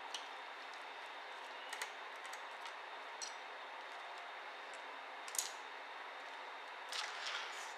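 A handful of light, scattered clicks and taps as ThinkPad T60p laptop parts are handled during disassembly, over a steady faint hiss.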